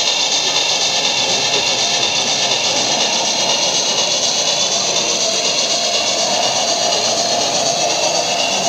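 Model train running on an exhibition layout: a steady high-pitched whine that drifts slowly in pitch, over an even hum.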